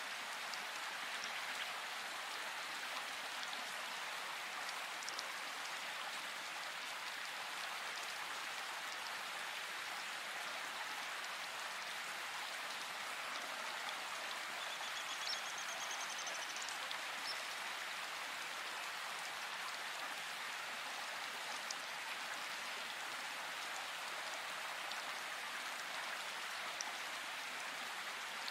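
Steady rain: an even hiss of falling rain with a few faint drop ticks.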